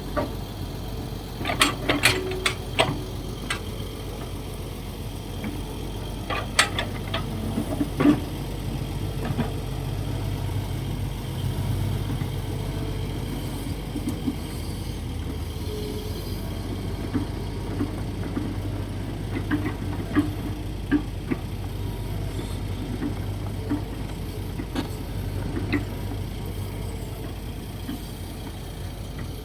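Kobelco SK135SR hydraulic excavator working, its diesel engine running steadily. Sharp metallic clanks and knocks from the bucket and arm come in a cluster about two seconds in, again around seven to eight seconds, and sparser through the rest.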